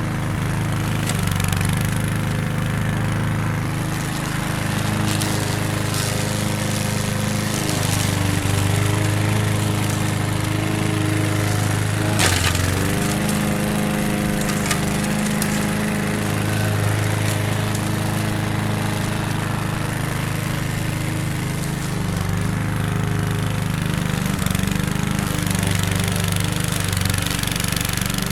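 Lawn mower engine running steadily while mowing tall grass and weeds, its note wavering with the load. About halfway through there is a sharp knock, and the engine note sags briefly, then picks back up.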